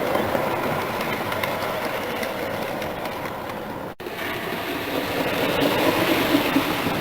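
A model railway train running along the layout's track, with a steady rumble of wheels and motor. There is a brief break about four seconds in, after which it grows louder as the train draws nearer.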